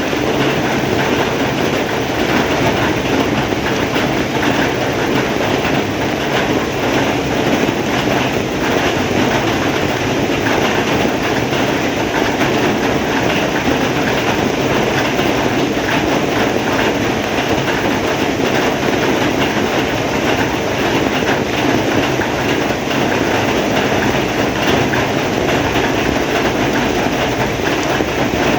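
Heavy rain falling steadily, a dense, even downpour with no let-up.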